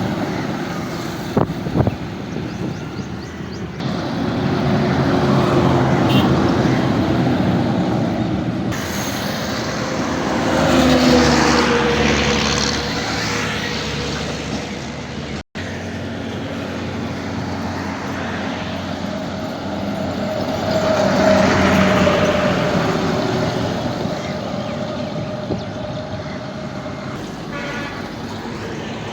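Heavy road vehicles, tractors and trucks, driving past with their engines running; the sound swells and fades several times as they pass, and cuts out for an instant about halfway through.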